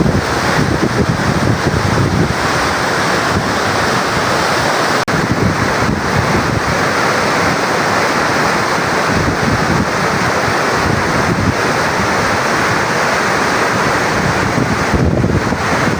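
Steady roar of water pouring down the Tarbela Dam service spillway, with wind buffeting the microphone.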